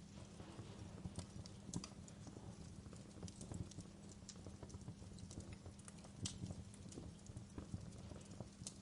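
Wood fire burning in a fireplace, crackling with irregular sharp pops and snaps over a low steady rumble. The loudest pops come about two seconds in and again about six seconds in.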